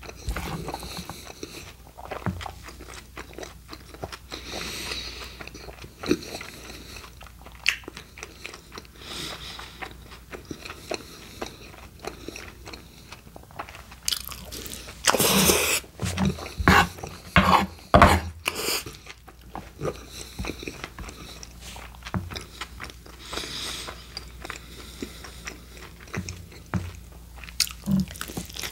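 Close-miked chewing of a steak burrito's rice, meat and lettuce filling: a run of wet, clicky mouth sounds, louder for a few seconds a little past the middle.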